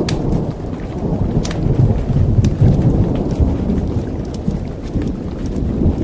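Rolling thunder rumbling over steady rain, swelling to its loudest about two to three seconds in and then easing off, with scattered sharp crackles from a campfire.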